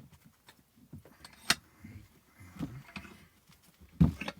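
Scattered knocks and clicks of tools and a workpiece being handled, with a sharp click about a second and a half in and a heavier thump near the end.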